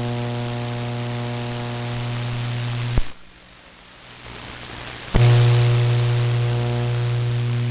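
CB radio receiver passing a keyed-up transmission with no voice: a steady buzzing hum over static. About three seconds in it cuts off with a click, leaving fainter hiss, and about two seconds later another click brings the hum back.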